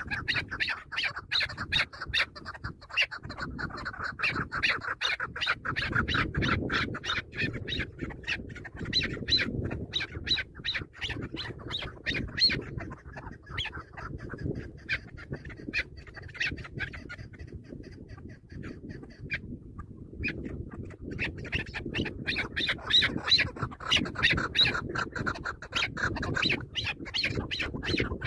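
Chukar partridge calling: a long run of rapid, repeated clucking notes, several a second, easing off through the middle and building again near the end.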